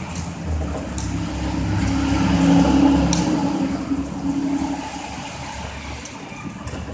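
A motor vehicle passing on a wet road. Its engine hum and tyre hiss swell to a peak about three seconds in, then fade away.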